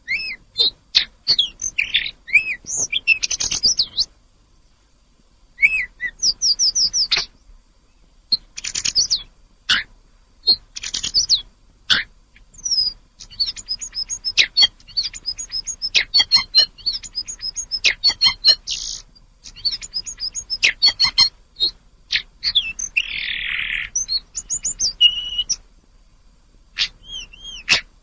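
A tledekan gunung songbird singing in quick bursts of varied high whistles and chirps, with short pauses between phrases and one harsher rasping note about two thirds of the way in.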